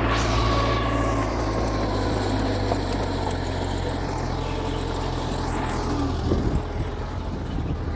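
Mitsubishi bulldozer's diesel engine running steadily under load, with a few knocks near the end.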